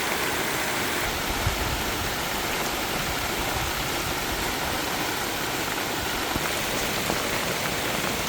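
Steady, even rush of flowing water, as from a valley stream running over rocks.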